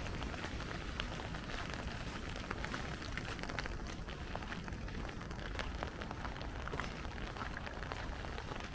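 Light rain falling, drops landing as many small, sharp ticks over a steady hiss, with a low rumble underneath.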